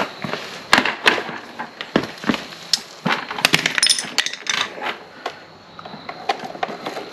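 Irregular clicks, clinks and knocks of hand tools, screws and plastic fairing parts being handled during a motorcycle parts install, busiest about a second in and again around the middle.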